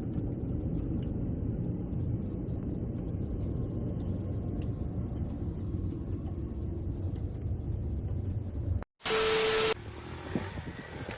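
Steady low rumble of a moving vehicle's engine and road noise. About nine seconds in it cuts off and a short loud burst of hiss with a single steady tone follows.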